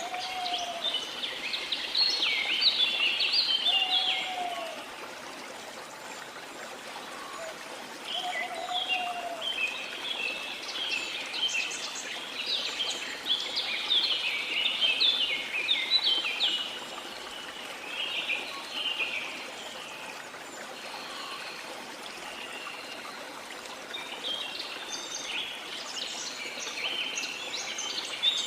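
A chorus of forest birds chirping in bouts of quick, high calls, with a few lower whistles in the first several seconds, over the steady rush of flowing river water.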